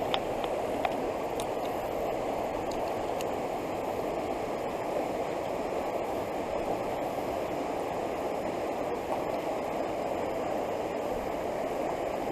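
Fast-flowing floodwater in a creek, a steady rushing noise, with a couple of faint clicks near the start.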